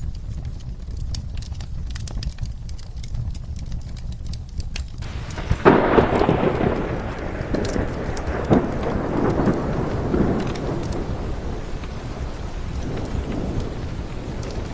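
Steady rain and crackling fire, then a loud thunderclap about six seconds in that rolls on and fades over several seconds.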